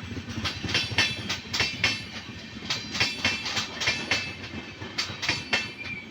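Passing train's wheels clicking over rail joints, a quick run of clicks over a steady rumble that begins to fade near the end.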